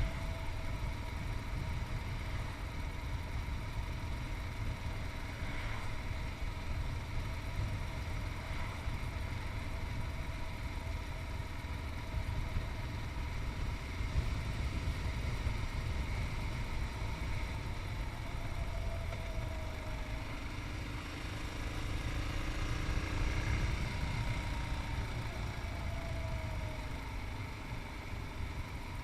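Yamaha MT-03's 660cc single-cylinder engine running while riding, under heavy low wind rumble on the chest-mounted camera's microphone. The engine note rises and falls a few times in the second half as the revs change.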